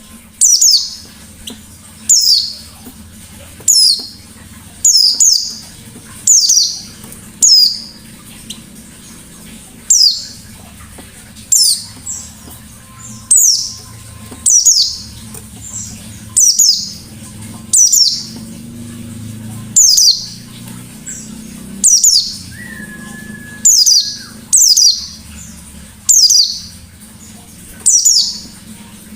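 White-eye (pleci) singing a sharp, high note that slurs downward, repeated about every second and a half in forest-style song.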